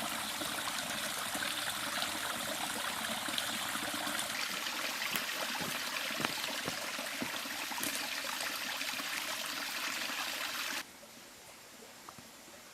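River water running over stones in a steady rush. A little before the end it cuts off suddenly, leaving a much quieter background with a few faint clicks.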